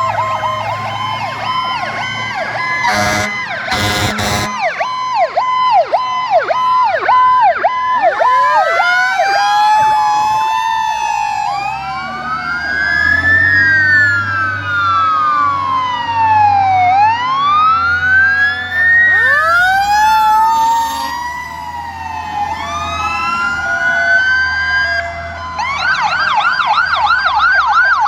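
Several fire-truck sirens sounding together: a fast yelp at first, then many slow rising-and-falling wails overlapping, with another fast yelp starting near the end. Two short horn blasts come about three and four seconds in, over a low engine rumble.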